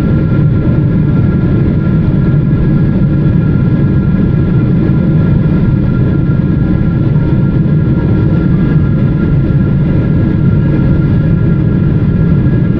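Steady cabin roar of a Boeing 777-300ER in descent: the low rush of airflow and GE90 engine noise heard from a window seat, with faint steady whining tones above it.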